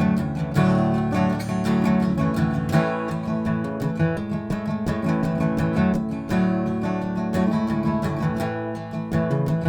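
Acoustic guitar in open G tuning, a hacksaw blade used as a partial capo across the middle four strings, strummed in a steady rhythm on a two-chord pattern (A and D), with no singing.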